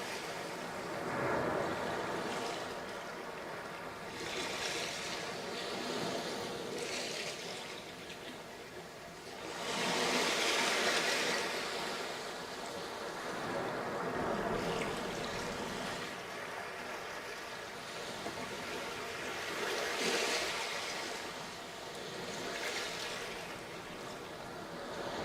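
Sea waves breaking and washing onto a sandy beach, the surf swelling and fading every few seconds, with a bigger break about ten seconds in and another near twenty.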